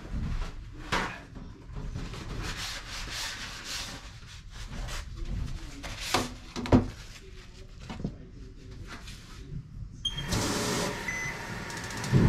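Kitchen work at the sink: irregular rubbing and scraping with a few sharp knocks, then a tap running steadily from near the end.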